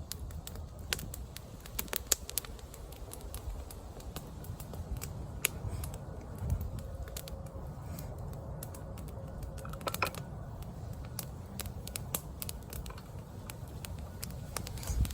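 Wood campfire crackling, with many irregular sharp pops and snaps, over a low wind rumble on the microphone.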